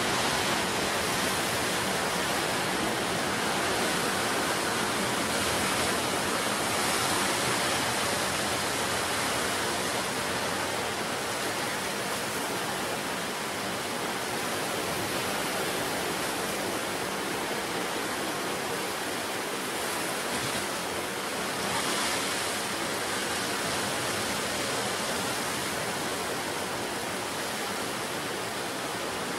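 Continuous rush of sea surf, waves breaking and washing along the shore, swelling slightly a few times.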